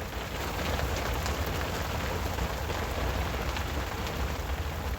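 Steady rain falling, a dense patter of drops with a low rumble beneath it.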